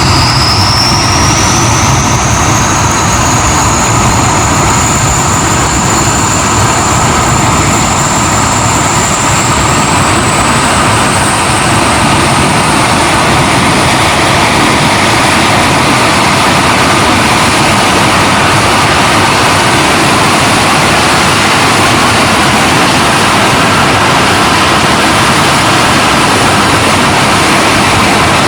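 Hawker Hunter's jet engine running loud and steady, a dense rushing noise with a high whine. The whine climbs in pitch over the first few seconds and again a little around ten seconds in as the engine speeds up, then holds steady.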